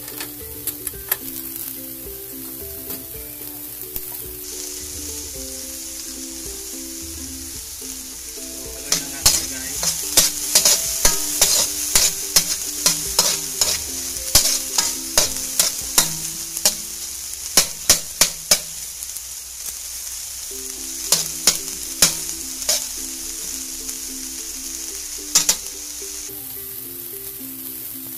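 Chopped garlic, onion and turmeric root sizzling in hot oil in a metal wok, being sautéed toward golden brown. A metal ladle stirs them, scraping and clicking against the pan, busiest in the middle of the stretch.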